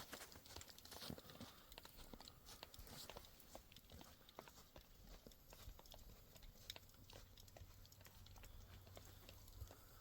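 Faint, scattered small clicks and crunches at irregular intervals over a low background.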